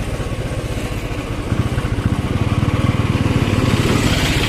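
Royal Enfield Bullet's single-cylinder engine running while the motorcycle is ridden, a fast even train of exhaust beats that gets a little louder about a second and a half in.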